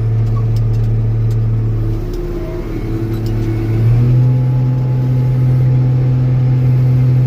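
Old Steiger four-wheel-drive tractor's diesel engine running steadily under load while plowing snow; its pitch sags a little about two seconds in, then picks up about four seconds in and holds higher.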